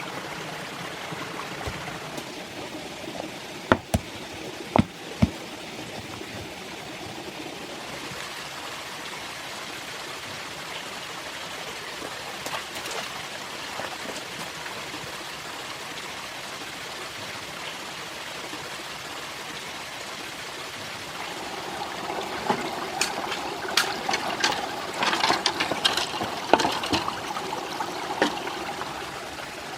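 Steady rush of running stream water, with three sharp knocks about four to five seconds in and a run of clicks and knocks in the last third.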